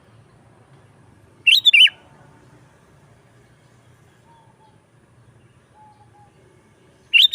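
Sooty-headed bulbul calling: two short, quick phrases of a few bubbling notes each, one about a second and a half in and another near the end.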